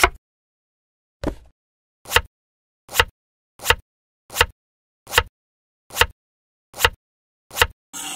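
Chef's knife cutting through watermelon rind onto a wooden cutting board: a sharp cut, a duller thud about a second later, then eight evenly spaced chops a little under a second apart, with dead silence between each.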